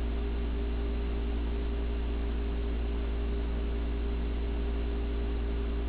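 52-inch Hampton Bay Gazebo ceiling fan running steadily on medium speed: an even motor hum over a soft, constant rush of moving air.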